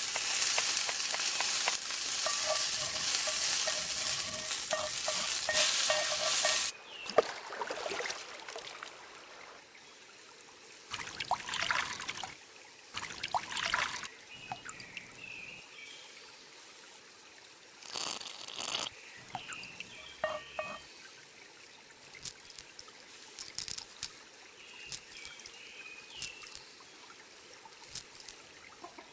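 Food sizzling in a hot pan, stopping abruptly about seven seconds in. After that come several short, scattered clatters and scrapes of cooking utensils.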